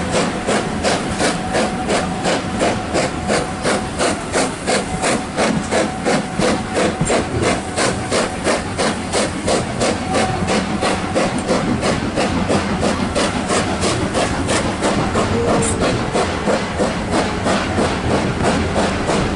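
LMS Black Five 45212, a two-cylinder 4-6-0 steam locomotive, working under steam, its exhaust beating in a steady, even rhythm.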